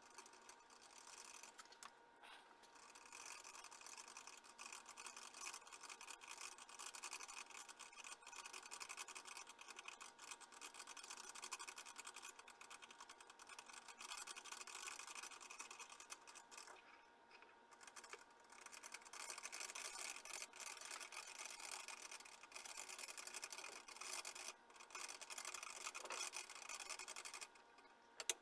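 Faint whir of a small motor-driven machine with a steady whine and a fluctuating hiss. It cuts off near the end, followed by a single click.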